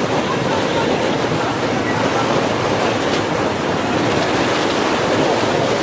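Steady rushing noise of wind, with a train running across the bridge.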